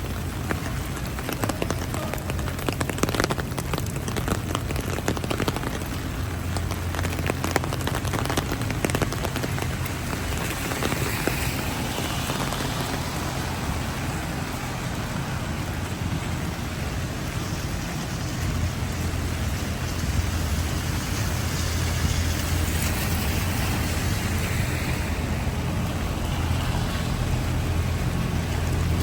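Heavy rain falling steadily, with many sharp drop ticks close by during the first several seconds and a steady low rumble underneath.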